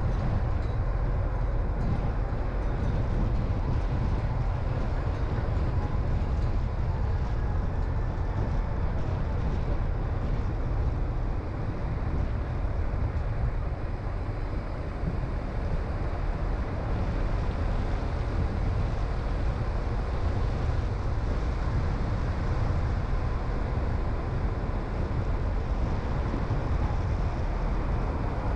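Car driving at steady speed: an even, low rumble of engine and tyre noise that hardly changes.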